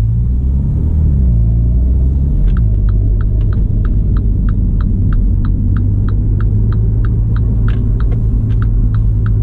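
MINI Cooper S F56's turbocharged four-cylinder engine running through an aftermarket downpipe-back exhaust, a steady deep rumble heard from inside the cabin, its pitch shifting in the first two seconds and then holding steady. About two and a half seconds in, a regular ticking starts, about three ticks a second.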